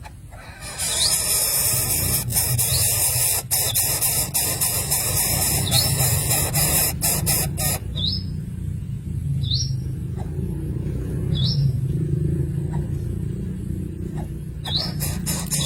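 A bird calling in short rising chirps, repeated about every second and a half, over a loud rushing hiss with clicks that starts about a second in, stops about halfway and comes back near the end.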